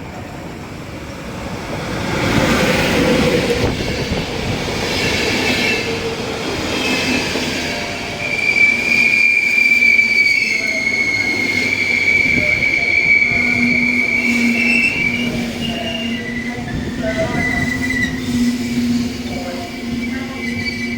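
A train running along the station platform, its rumble building about two seconds in. From about eight seconds its wheels give a high, steady squeal lasting several seconds, and shorter squeals come and go near the end.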